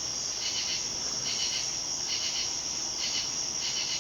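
Night insect chorus: a steady high-pitched trill with a second insect call pulsing on and off about twice a second.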